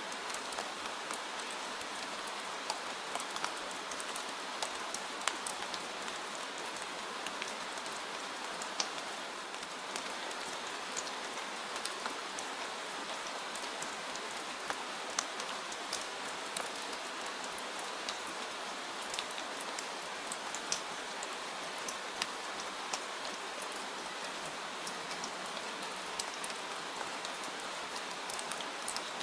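Gentle, steady rain: an even hiss with many small drop ticks scattered throughout.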